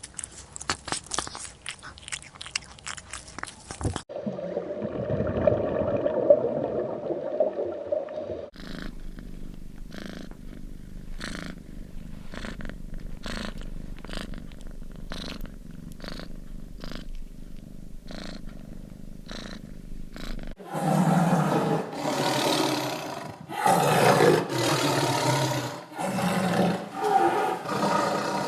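Several animal sounds cut one after another. First comes a rapid run of clicks, then a low rumbling sound, then soft strokes about once a second over a low hum, and from about two-thirds of the way through, loud repeated pitched calls.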